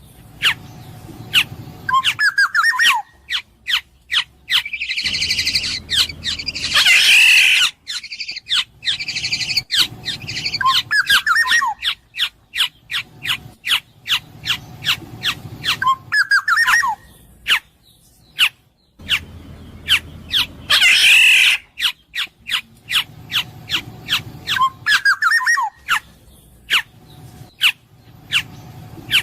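Black-naped oriole (kepodang emas) calling: short fluty, falling whistled phrases every few seconds, and twice a louder harsh, scratchy call, amid many sharp clicks.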